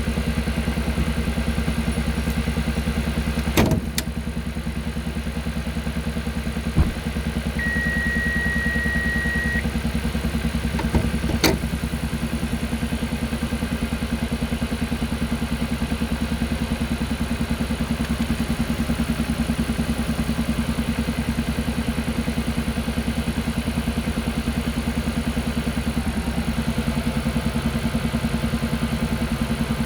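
Kia Carnival Hybrid engine running steadily with a rapid, regular 'puck-puck-puck' pulsing, the abnormal engine noise the owner is documenting. A few sharp knocks are heard, and a steady beep sounds for about two seconds near the middle.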